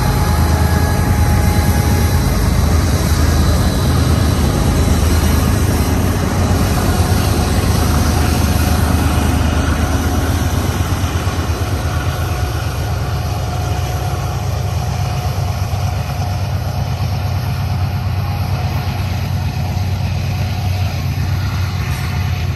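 BNSF diesel-electric locomotives pass close with a deep, steady engine drone. About halfway through they give way to double-stack container cars rolling by, a steady wheel-on-rail rumble that is a little quieter.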